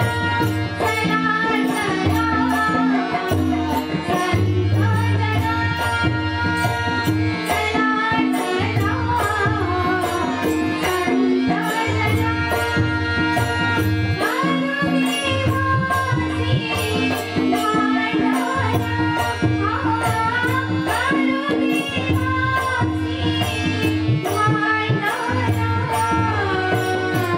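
Marathi devotional bhajan sung to a wavering melody over a steady held drone, with hand-drum accompaniment keeping an even beat.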